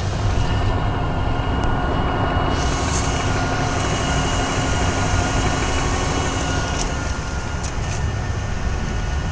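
Cabin sound of a BMW 323Ci's 2.5-litre inline-six running with the car under way: a steady low rumble with a faint steady whine above it, the whine the owner is trying to trace. A brighter hiss joins about two and a half seconds in and stops near seven seconds.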